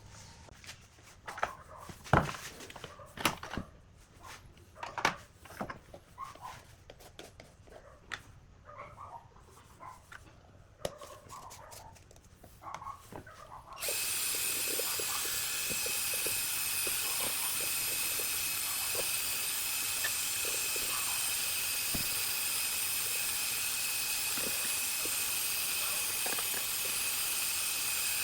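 Scattered workshop knocks and clatter, with a few short higher sounds. About halfway through it gives way abruptly to a power tool running steadily with a high, even whine.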